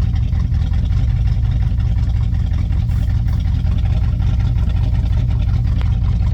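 1965 Chevrolet C10 pickup engine idling with a steady low rumble.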